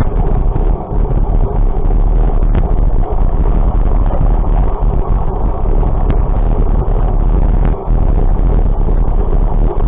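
Loud, steady rumble of a vehicle on the move with wind buffeting the microphone.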